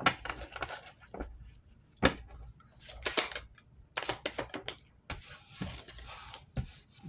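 Cards being shuffled and handled: a run of quick, irregular clicks and rustles.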